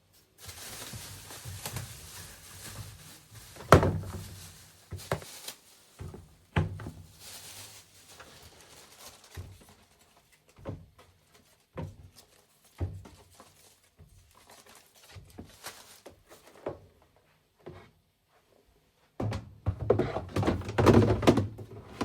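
Scattered thunks and knocks of objects being handled and set down in a small room, with a few stretches of hiss, and a busier run of knocking and rattling near the end.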